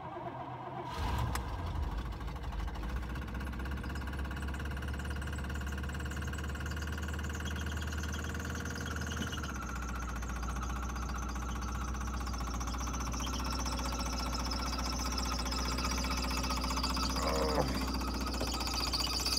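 1983 Buick Electra's engine catching on a cold start about a second in, after sitting overnight in the snow, then idling steadily.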